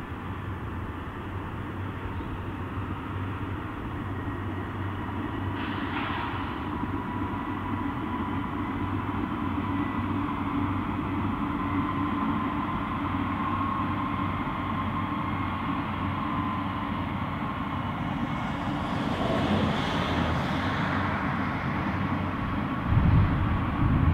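Distant passenger multiple unit train running along the line: a steady rumble with a faint engine whine that slowly grows louder as it passes. There is a brief low thump near the end.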